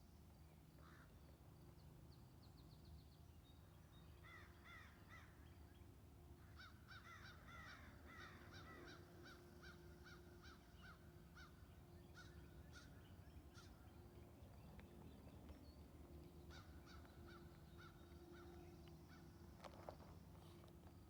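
Faint birds calling: runs of short, quickly repeated calls from about four seconds in until near the end, over a low steady hum.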